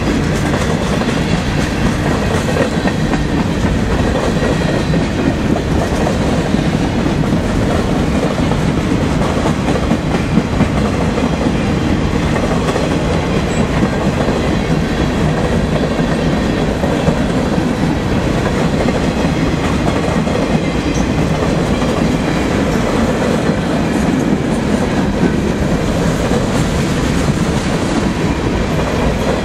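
Freight cars of a long mixed freight train rolling past close by: the steady noise of steel wheels running on the rails, with no change in level throughout.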